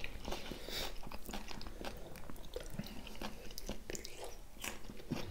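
People chewing and biting food, with irregular crisp crunches as a cucumber slice is bitten and chewed.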